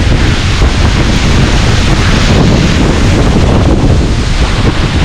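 Loud, steady roar of a waterfall close by, with wind buffeting the microphone.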